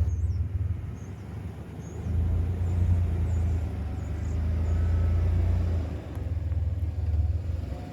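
Pickup truck engine idling while it warms up: a steady low rumble that swells and dips in level.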